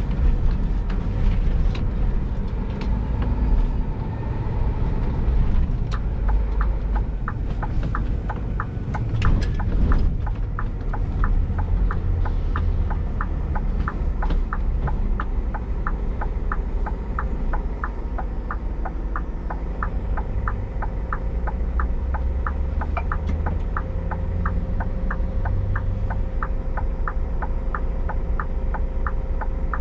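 Scania G410 truck's 13-litre straight-six diesel running steadily while hauling a loaded container trailer, heard as a deep rumble inside the cab with scattered knocks and rattles. About six seconds in, a steady quick ticking starts and keeps going.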